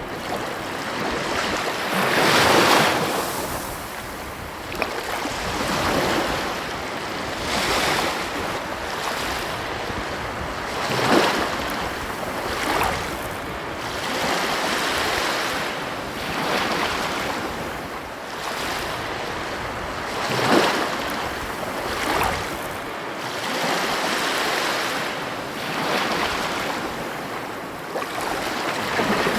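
Ocean surf: a continuous rush of waves breaking and washing in, swelling every few seconds, loudest about two, eleven and twenty seconds in.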